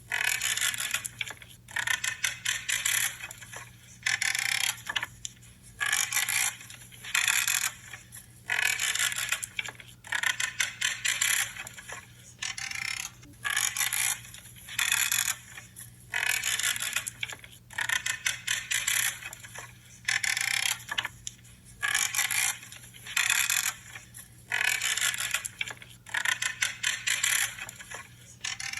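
Branches being cut by hand, each cut a short crisp creaking crunch, repeating about once every second or so with brief pauses between. A faint steady low hum lies underneath.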